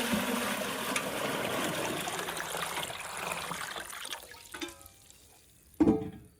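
Water poured in a steady stream into a container, tapering off about four seconds in. A short thump near the end.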